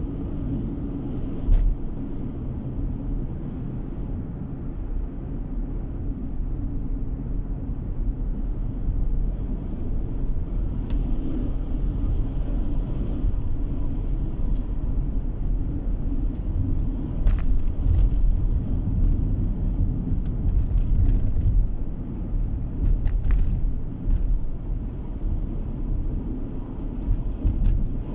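Car driving along a road, heard from inside the cabin: a steady low rumble of road and engine noise, with a few short clicks or knocks.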